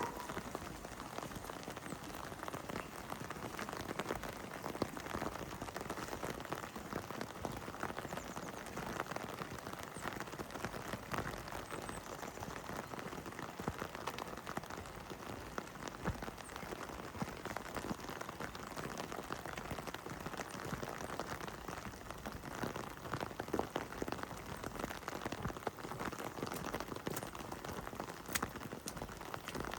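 Heavy rain falling steadily: a dense, even hiss with many separate drops pattering on hard surfaces. A brief sharp sound right at the start stands out above it.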